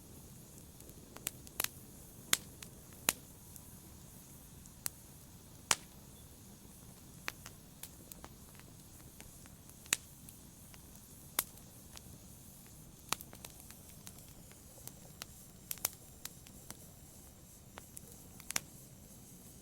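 Fireplace fire crackling, with irregular sharp pops about every second over a steady low hiss.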